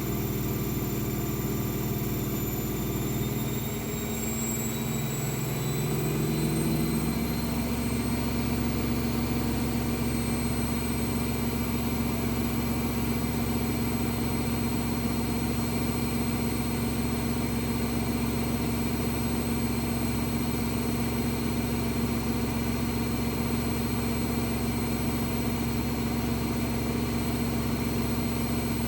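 AEG Lavamat W 1450 washing machine spinning a load of towels: the motor's whine rises over the first several seconds as the drum speeds up, then holds steady at spin speed with a constant hum.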